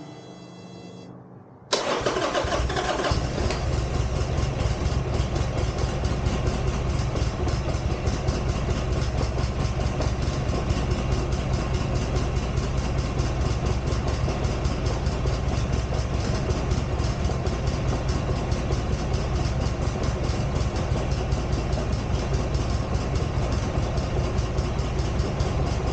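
Buell XB12R's air-cooled V-twin starting about two seconds in, then idling steadily with an even pulsing beat. It is running with a faulty charging system: battery voltage sags to about 11 V instead of the roughly 14 V it should reach.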